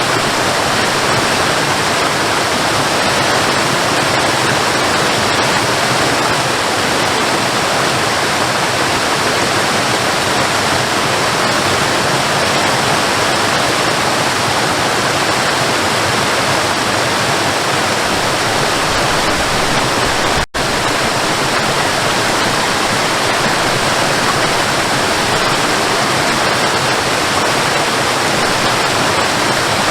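Waterfall: a steady, full rush of falling water, broken by a momentary dropout about two-thirds of the way through.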